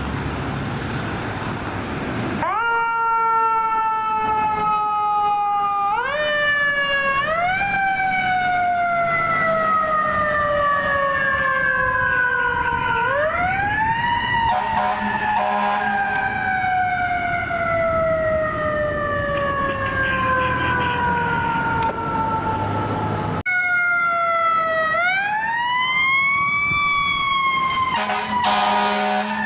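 Fire apparatus siren winding up in quick rising pulls, each followed by a long slow falling wail, repeated several times. Low, buzzy air horn blasts come about halfway through and again near the end.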